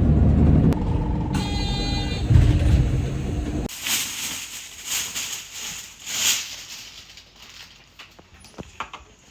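Low rumble of a moving vehicle with a brief beeping tone, cutting off abruptly after about three and a half seconds. A quieter stretch follows, with soft rustling swells and a few clicks.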